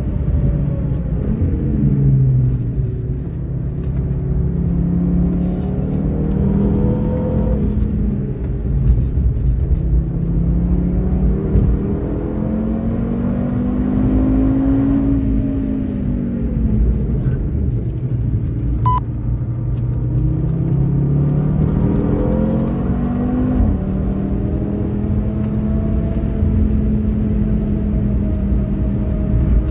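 2013 Audi TT RS 8J's turbocharged five-cylinder engine, heard from inside the cabin, working hard at speed. Its pitch climbs through the revs and drops several times with gear changes and braking.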